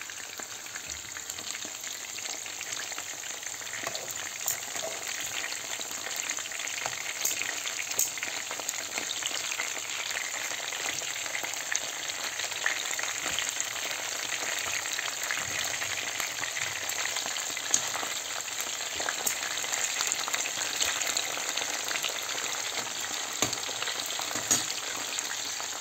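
Whole striped-peeled eggplants frying in hot oil in a pan: a steady sizzle with scattered small crackles, while metal tongs turn the pieces.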